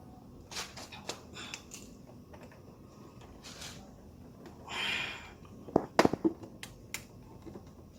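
Scattered clicks and knocks of hard plastic engine parts being handled while an ignition coil is worked into place. A breathy exhale comes about five seconds in, and a quick cluster of sharp clicks about a second later is the loudest sound.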